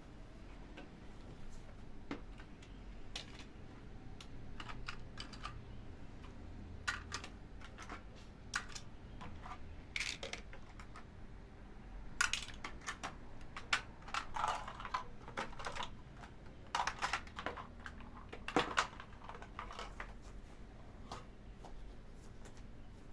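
Light objects being handled during housework: irregular small clicks, taps and clatters, busier and louder in the second half.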